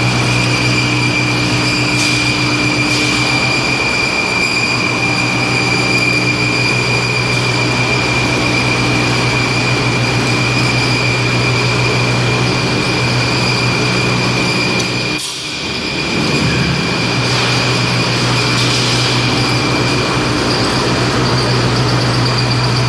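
High-frequency welded pipe mill running: steady, loud machine noise with a constant high-pitched whine over a low hum, briefly dipping about two-thirds of the way through.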